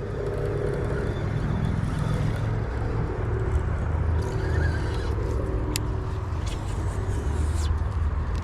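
Wind buffeting the microphone: a steady low rumble, with a few faint sharp clicks in the second half.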